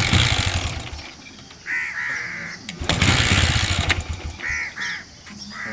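Motorcycle engine being kick-started, firing in two short sputtering bursts of about a second each, one at the start and one about three seconds in, dying out each time; the mechanic takes the trouble for dirt inside the carburettor. Crows caw in between.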